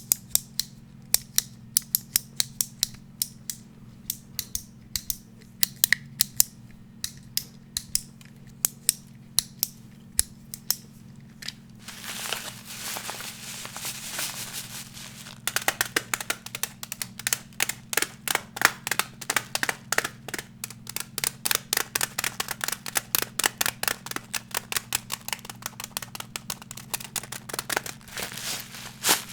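Fast tapping on a hard object: sharp clicks about three a second, then a few seconds of scratching or brushing about twelve seconds in, then quicker taps about five a second. A faint low hum runs underneath.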